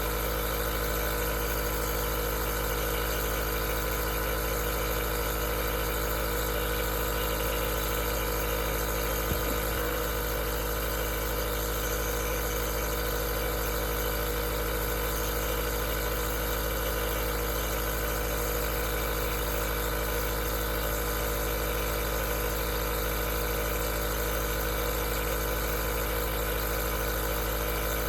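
Aerosol nebulizer's compressor running steadily: an even mechanical hum with several steady tones over a hiss, and one small tick about nine seconds in.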